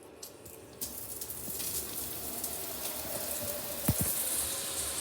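Bristan multi-mode shower head switched on in its regular spray mode: water starts spraying suddenly about a second in and keeps up a steady hiss. A short knock sounds about four seconds in.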